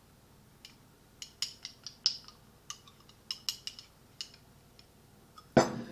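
Light, irregular clicks and clinks of a utensil against a hot sauce bottle as a taste of sauce is dished out, then one louder knock near the end.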